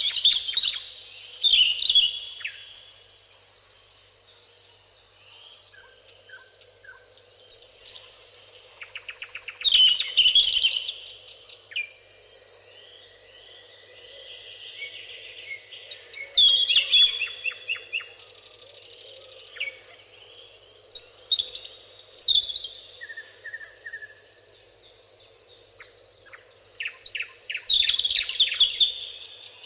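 Songbirds singing in a summer meadow: one loud, fast trilled song phrase repeats about every five to six seconds, with softer calls from other birds between. A steady high thin tone runs underneath.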